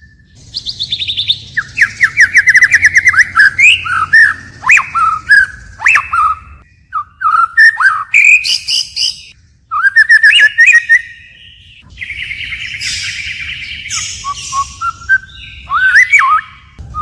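White-rumped shama singing a long, varied song of rapid trilled runs, clear slurred whistles and sharp chips, broken by short pauses. A harsh, buzzy phrase comes about three-quarters of the way through.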